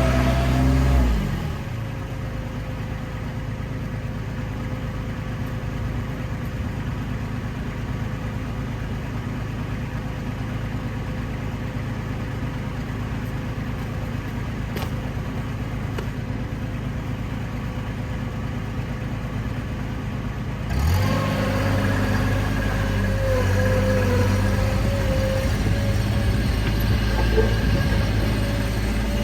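Bobcat MT100 mini track loader's engine running: it drops from high throttle to a lower steady speed about a second in, then throttles back up about 21 seconds in and holds there.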